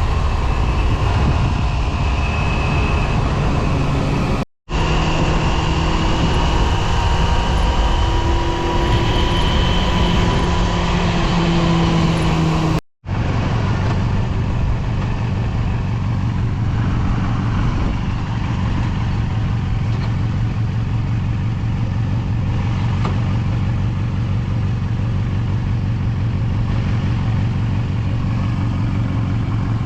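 Yamaha FZR250 (2KR) 250 cc inline-four engine running steadily under way, with wind noise over it. The sound cuts out for an instant twice, and after the second break the engine note sits lower.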